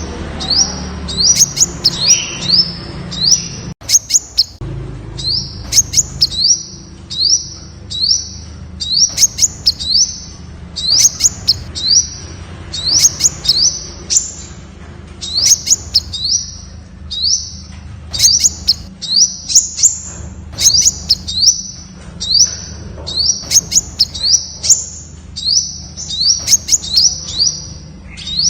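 Temminck's sunbird calling: short, high, upward-sweeping chirps repeated about twice a second in quick uneven runs, over a faint low hum.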